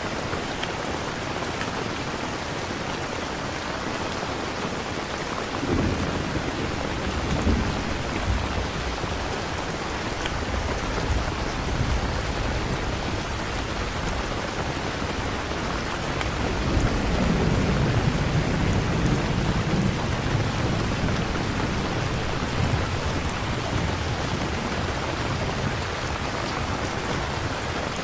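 Steady rain falling, with rolls of thunder: a short rumble about six seconds in and a longer, louder one starting about seventeen seconds in.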